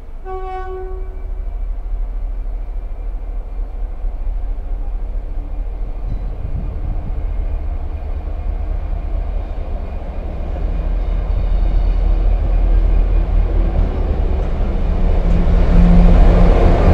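A train horn gives one short toot near the start, then an approaching train's low rumble builds steadily and is loudest near the end.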